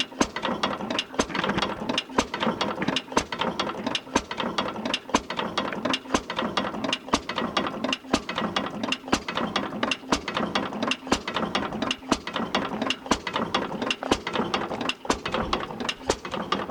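1912 Falk 5 hp side-shaft stationary engine running slowly: a steady clicking and clattering from its side-shaft valve gear and igniter mechanism, with a louder beat about once a second.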